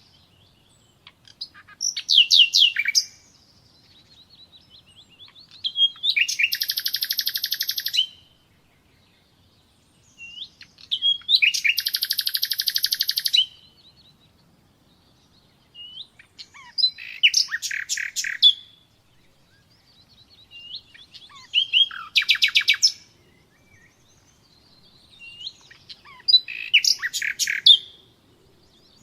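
Common nightingale singing: six separate phrases broken by short pauses, built from rapid runs of repeated notes, with two longer buzzy rattling phrases in the first half.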